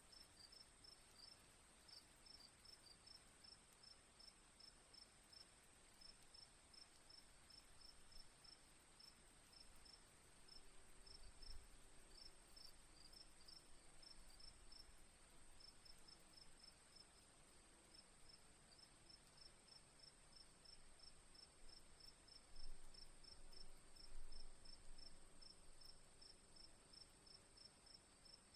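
Crickets chirping in an even rhythm, a few chirps a second, over a steady high insect tone. There are a few faint low bumps about a third of the way in and again near the end.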